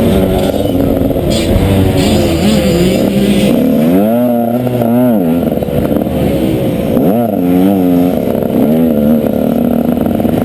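Motocross dirt bike engine heard up close, its revs climbing and dropping repeatedly as the throttle is worked, with sharp rise-and-fall sweeps about four and seven seconds in.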